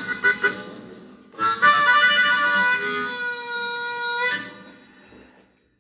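Blues harmonica playing the tune's closing phrase: a few quick rhythmic chord stabs, then after a short pause one long held chord that stops about four and a half seconds in and fades away.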